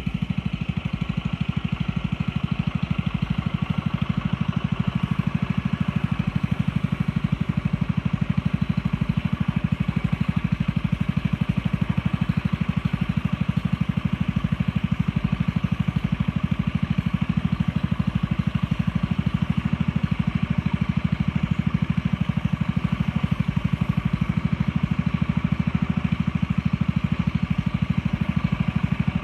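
A boat engine running steadily at a constant speed, with a fast, even chugging pulse.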